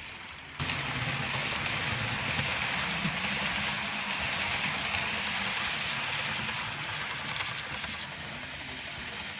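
Model diesel train running on the layout: a steady rushing noise that starts suddenly about half a second in and eases slightly near the end.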